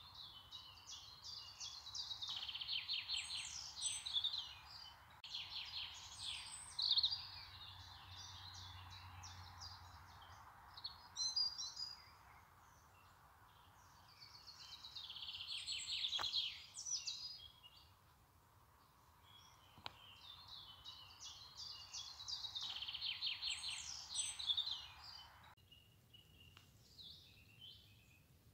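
Songbirds singing in rapid trilling phrases, several bouts of a few seconds each, over a soft steady hiss that cuts off suddenly near the end.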